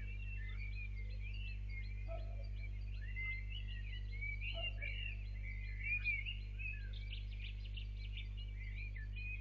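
Several birds singing at dawn in overlapping chirping, warbling phrases, with a quick rattling trill about seven seconds in, over a steady low hum.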